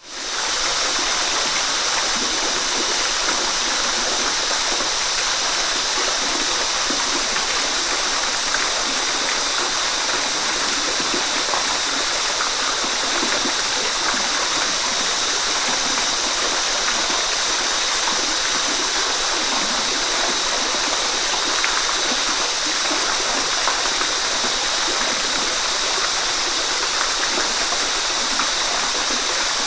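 Waterfall: a steady, even rush of falling water that fades in at the very start and then holds level.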